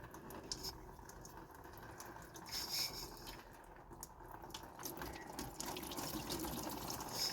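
Coolant running out of a 2006 Toyota Corolla's freshly opened radiator drain and trickling into a drain pan. The flow gets a little louder toward the end.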